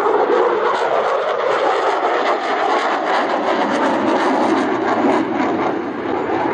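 Aircraft engines, a loud steady roar with a slowly shifting pitch.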